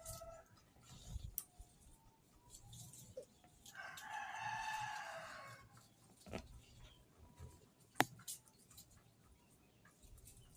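A rooster crowing once, a call of about two seconds that starts about four seconds in. A few light knocks, with a sharp knock near eight seconds.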